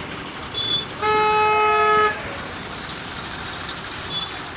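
A vehicle horn sounds once, a steady single-pitched blast about a second long, over constant background noise.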